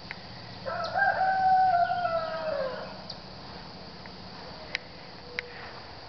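A bird giving one long call of about two seconds, held steady and then falling in pitch at the end.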